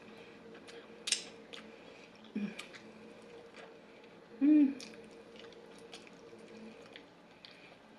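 Close-miked eating sounds: chewing with wet mouth clicks. There is a sharp click about a second in and a short hum of the voice about halfway through.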